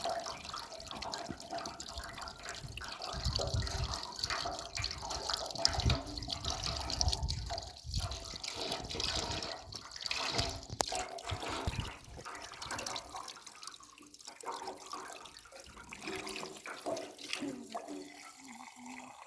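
Water running and splashing, like washing under a tap, with small handling knocks; it grows quieter about two-thirds of the way through.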